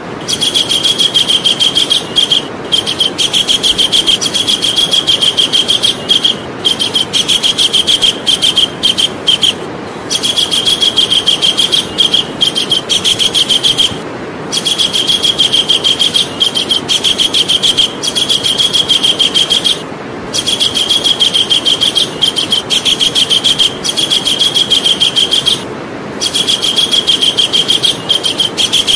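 Javan kingfisher calling: long runs of very fast, evenly repeated high notes, each run lasting several seconds and broken by short pauses. A steady hiss lies underneath.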